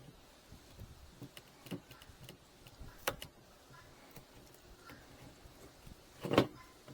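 Scattered light clicks and taps from handling wooden beehive frames, with a sharper click about three seconds in and a louder knock near the end.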